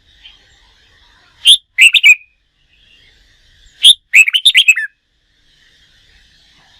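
Red-whiskered bulbul singing: two loud bursts of quick, warbled notes, about one and a half and four seconds in, over faint steady twittering.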